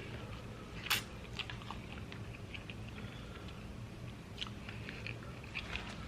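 A person chewing food close to the microphone: faint, scattered mouth clicks, with one sharper click about a second in.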